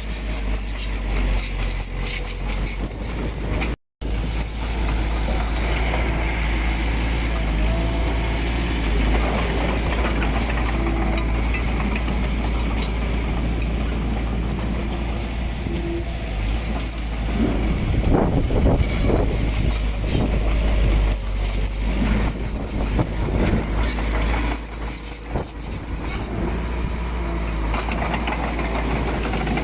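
Heavy diesel earthmoving machinery running steadily with a deep rumble. The sound cuts out briefly about four seconds in, and there is a louder stretch with knocks and clanks around the middle.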